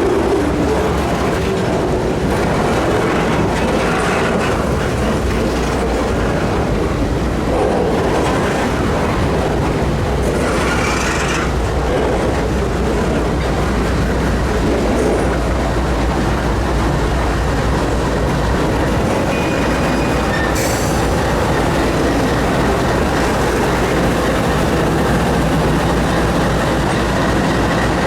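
Canadian Pacific freight train rolling slowly past, its cars rumbling steadily on the rails with clicking wheels and brief wheel squeals about ten and twenty seconds in.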